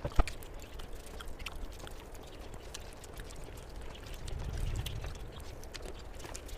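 Close-miked eating sounds: wet chewing with many small mouth clicks and smacks, and one sharp knock about a quarter of a second in.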